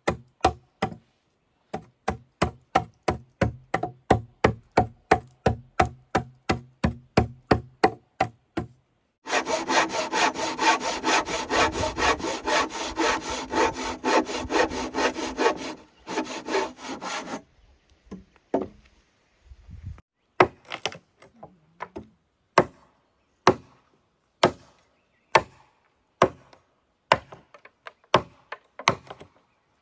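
Wood being worked with hand tools: a run of regular blows about two a second, then about eight seconds of rapid sawing strokes from about nine seconds in, then slower, more scattered blows.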